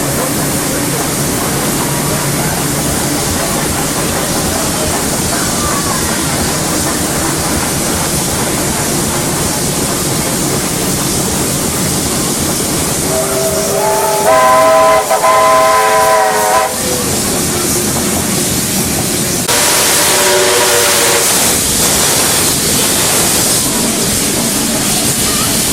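Steam train running, with steady rolling and rail noise heard from the carriage behind the locomotive. About halfway through, a steam whistle sounds for about three seconds, the loudest sound, then a shorter, quieter whistle follows about three seconds later along with a louder hiss.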